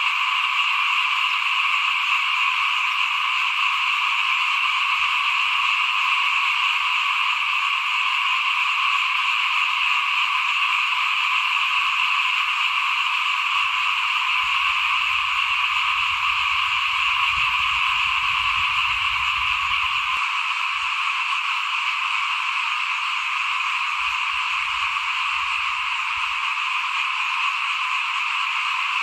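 A dense, unbroken chorus of many small frogs (khiat) calling at once. The calls blend into a steady, high-pitched din that never pauses.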